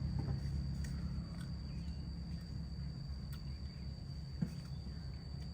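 An insect trilling in one steady, unbroken high tone over a low rumble, with one short tap about four seconds in.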